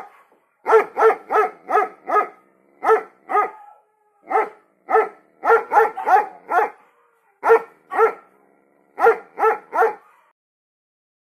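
Dog barking, about twenty sharp barks in quick runs of two to six.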